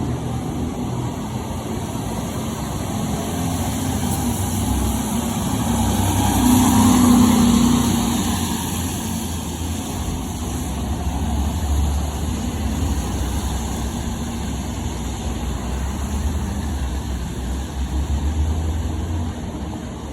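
Fire engine driving, its diesel engine running with a steady low hum. It grows louder to a peak about seven seconds in, then settles back to a steady run.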